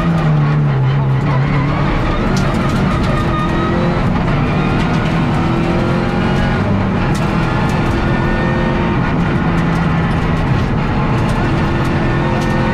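Peugeot 207 R3 rally car's engine at racing pace, heard from inside the cabin. The pitch climbs and drops back again and again as the driver works up and down through the gears.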